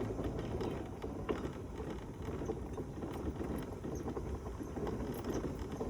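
Mobility scooter rolling along a path: a steady low rumble from the tyres and chassis over the uneven surface, with scattered small clicks and rattles.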